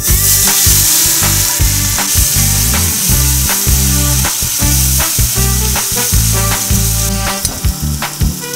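Hot oil in a metal kadai sizzling loudly as a pale paste is poured in and stirred with a spatula. The sizzle starts suddenly as the paste hits the oil and eases a little near the end, over background music.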